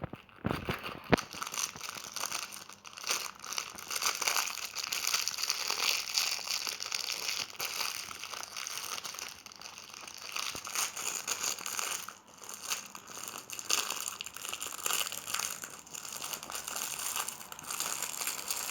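Packaging crinkling and crackling continuously as it is handled and pulled at in a struggle to open it, with a couple of sharp clicks about a second in; the package does not give.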